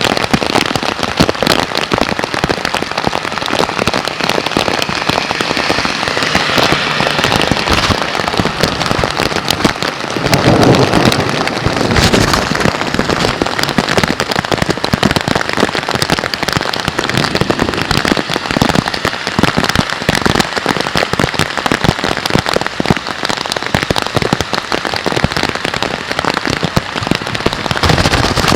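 Heavy thunderstorm rain: a loud, dense crackling patter of drops that keeps on without a break. A deeper rumble swells briefly about ten seconds in.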